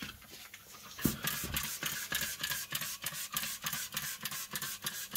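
A round paint brush scrubbing and dabbing epoxy mastic into the edges of a car's underside as a stripe coat: quick scratchy strokes, about three or four a second, starting about a second in.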